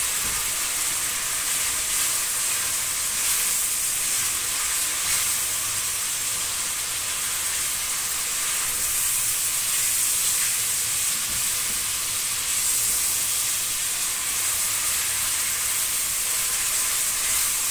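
Beef liver with green pepper and garlic sizzling steadily in hot oil in a frying pan, stirred with a silicone spatula.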